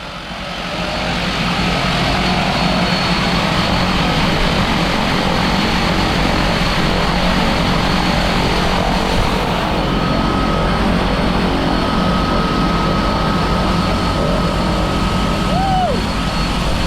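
Propeller aircraft engine running steadily, a loud, even drone with rushing air noise.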